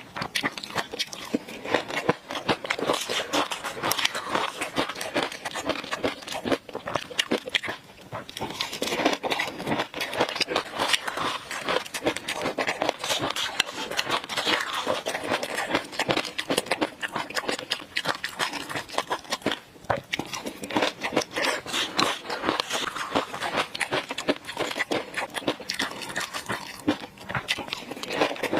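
Close-miked chewing of fish roe sauce: a dense, continuous run of small wet crackling clicks, with a couple of short pauses.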